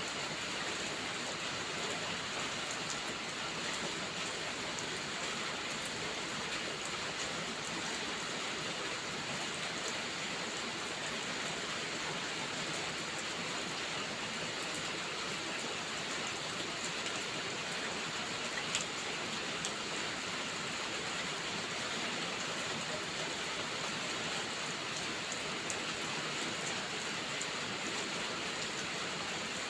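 Heavy rain falling steadily, a dense even hiss, with scattered faint clicks and pops and one slightly louder pop about two-thirds of the way through.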